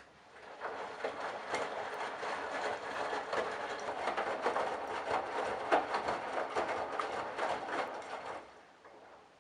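Candy Bianca front-loading washing machine's drum turning on a Delicates cycle, with laundry tumbling inside for about eight seconds before the drum stops again. This is the gentle stop-and-go drum action of a delicates wash.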